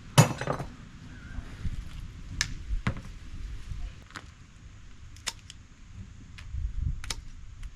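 Hand tools clicking against metal as an appliance is taken apart for scrap: a loud click right at the start, then a handful of single sharp clicks a second or so apart.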